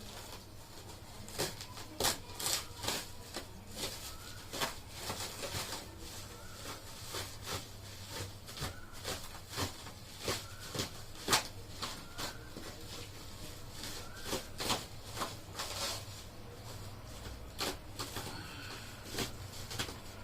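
Irregular light clicks, taps and short rustles of things being handled, over a low steady hum.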